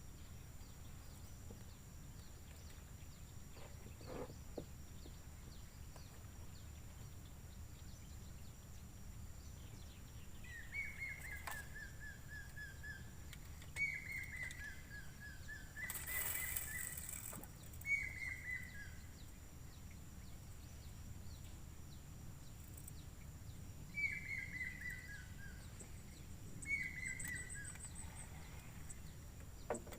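A bird singing a short phrase of quick notes that step down in pitch, repeated six times, over a steady outdoor background with a constant thin high tone. A brief rustle about sixteen seconds in.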